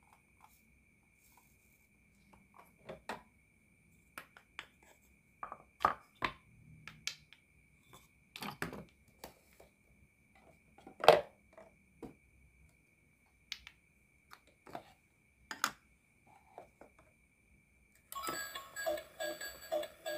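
Plastic toy food and toy kitchen pieces clicking and knocking as they are picked up and set down, with a faint steady high tone behind. Near the end, music starts.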